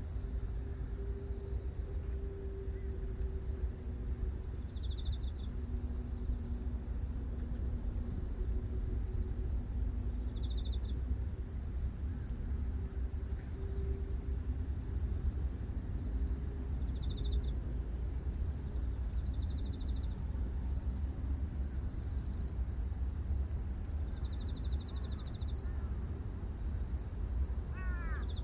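Grass insects such as crickets singing: one steady high-pitched drone, with another insect's pulsed chirps repeating about every one and a half to two seconds and a few shorter trills in between, over a low rumble. A bird calls a few times near the end.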